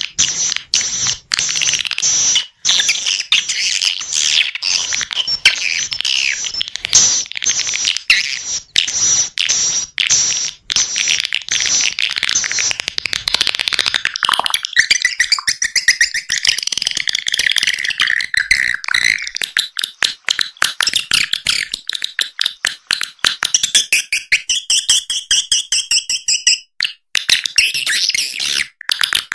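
Swiftlet call recording: dense, rapid, high-pitched twittering chirps, many to the second, with the twitter dropping somewhat in pitch about halfway through. It is a lure call track of the kind played through tweeters to draw swiftlets into a nest house.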